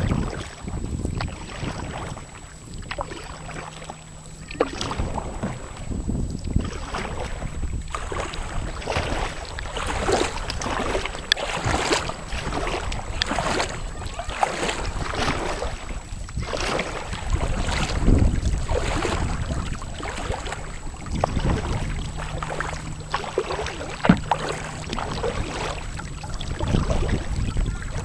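Kayak paddle strokes splashing and dripping in the river water, repeated irregularly, with low wind rumble on the microphone.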